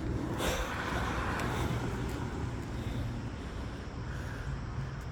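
Distant train running past: a low rumble with a hiss that swells about half a second in and then slowly fades.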